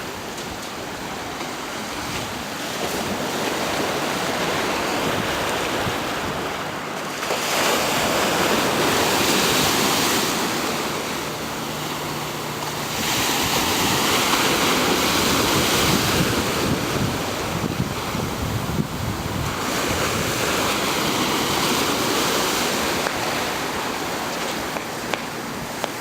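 Sea surf: waves washing in and breaking, the rush swelling and falling back several times, with wind on the microphone.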